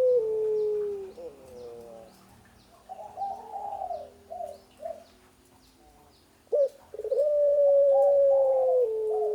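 A female dove cooing to call her mate: a long held coo that drops slightly in pitch, then a run of short broken coos, then a sharp note and another long held coo from about seven seconds in. Faint high ticks repeat throughout.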